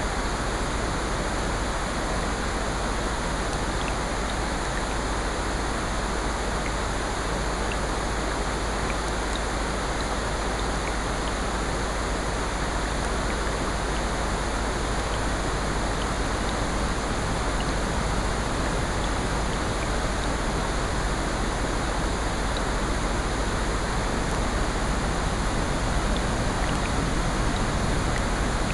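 Steady mixed nature ambience of rain and ocean surf, with faint, scattered fireplace crackles over the even wash of noise.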